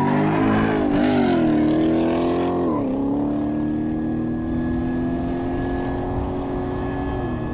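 C7 Corvette's V8 under full-throttle acceleration from a standing start, pulling through the gears: the engine note climbs, dips as the car goes by, drops sharply at upshifts just before three seconds and near the end, and grows gradually fainter as the car draws away.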